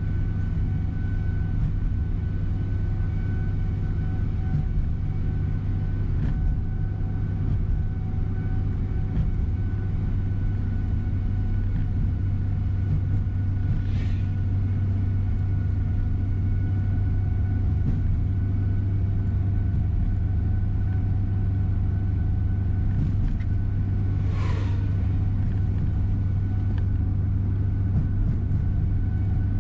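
Steady drone of a tour coach's engine and road noise heard from inside the cabin while the bus drives along, with a strong low hum. Twice, about 14 and 24 seconds in, a brief higher swish passes, the second falling in pitch.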